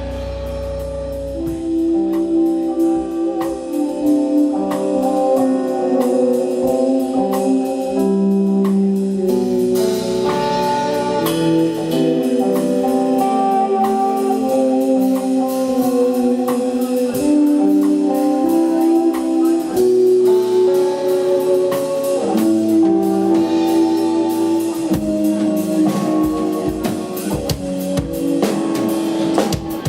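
Live instrumental rock-fusion band playing: a melodic guitar line over a drum kit.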